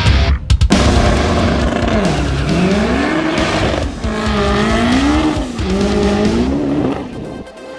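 Car engine at a drag strip revving up and down again and again, its pitch rising and falling, over the hiss of tires squealing.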